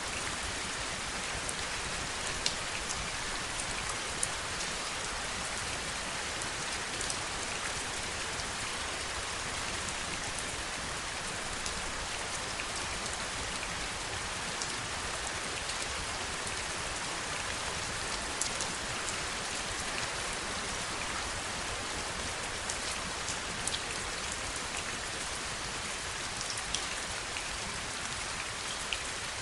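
Steady heavy rain, with scattered individual drops ticking sharply on a nearby surface.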